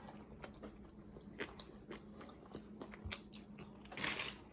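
Close-up eating sounds: crisp crunching bites and chewing of a breaded fried chicken sandwich, in short scattered crackles, with a louder crunchy burst near the end.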